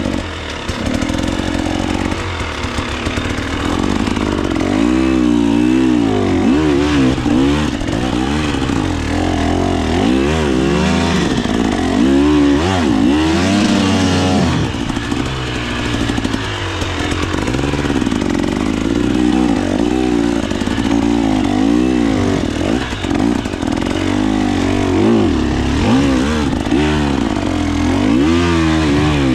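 2024 KTM 300 XC-W two-stroke dirt bike engine under way, revving up and down repeatedly as the throttle is worked.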